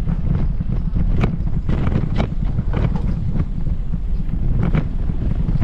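Wind buffeting the microphone as a loud, steady low rumble, with footsteps of someone walking on a paved path as sharp steps about every half second.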